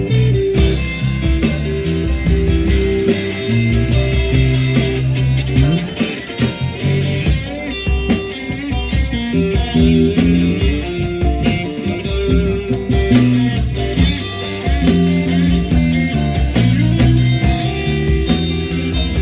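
Band music led by electric guitar with bass underneath, playing a steady blues-rock passage without vocals.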